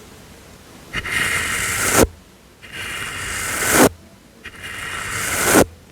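A soft brush swept in slow strokes for ASMR, three of them, each about a second long with a short pause between, each ending sharply as the brush lifts off.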